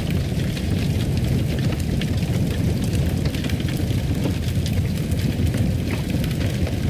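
Fire crackling in a fireplace: a steady low rumble with many small, scattered pops and crackles.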